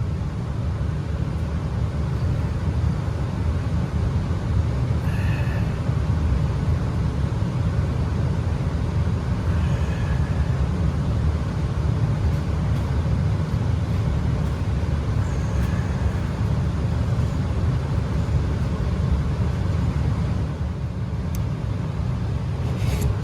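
2022 Payne standard-efficiency gas furnace running in heating mode, with burners lit and blower going: a steady low rumble of moving air.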